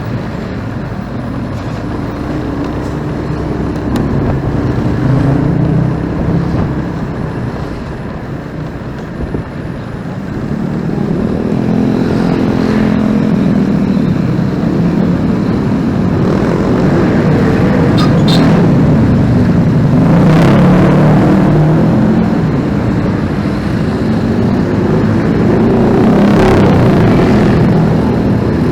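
Motorcycle ridden through busy city traffic: its engine running and rising and falling in pitch with the throttle, among the noise of other passing vehicles.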